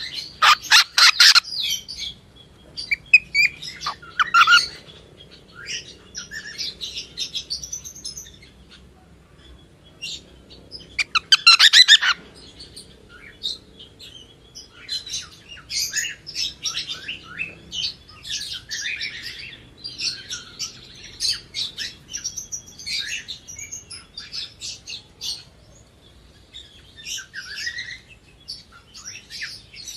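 Cockatiel chirping and warbling. Loud runs of rapid chirps come at the start and again about twelve seconds in, with softer chirps and warbles in between.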